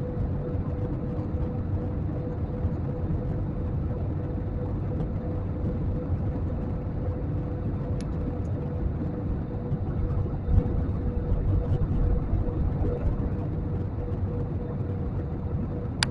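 Steady low roar of jet airliner cabin noise in flight, with a faint steady hum running through it. There is a short click about halfway through and another near the end.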